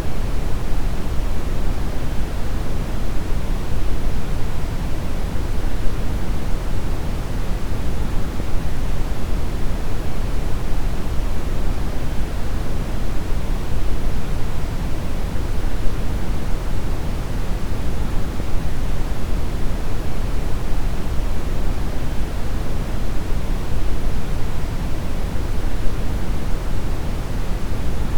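Steady brown noise: an even, deep rushing hiss, heaviest in the bass and falling off toward the treble, unchanging throughout.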